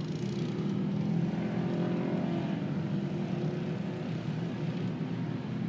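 Steady mechanical hum of a camera drone's propellers mixed with off-road race car engines running.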